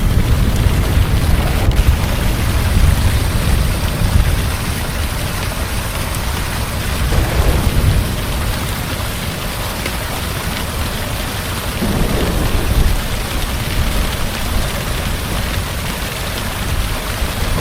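Heavy rain falling steadily, with low thunder rumbling underneath that swells near the start and again about seven seconds in.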